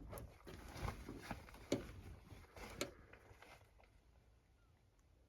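A few light knocks and clicks in the first three seconds, growing fainter, then near quiet.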